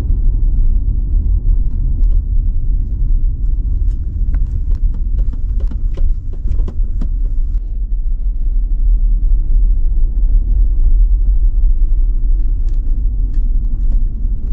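Strong wind buffeting the microphone: a loud, heavy low rumble that surges and dips, with scattered small clicks.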